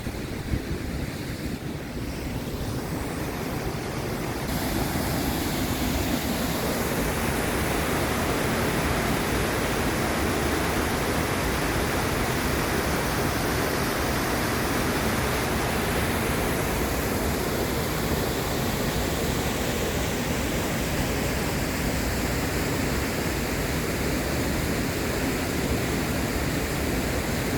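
Rushing water from a mountain creek or waterfall: a steady, even rush that grows louder over the first few seconds and then holds.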